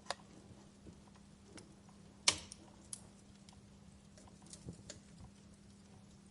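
Wood fire crackling in a fireplace: scattered sharp snaps and pops, the loudest a little over two seconds in, over a faint steady hum.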